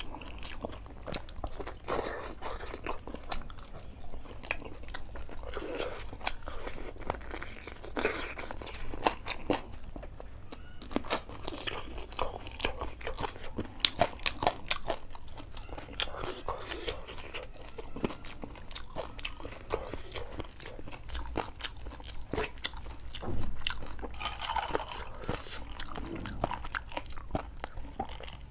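A man chewing and biting into chicken curry, with wet chewing and mouth smacks broken by many sharp crunching clicks.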